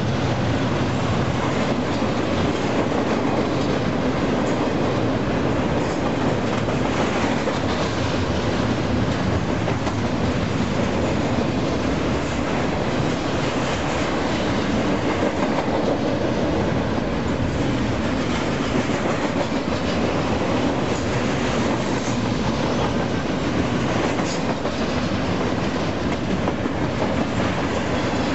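Union Pacific double-stack intermodal freight train's container well cars passing at speed close by: a loud, steady noise of steel wheels running on the rails, with occasional clicks.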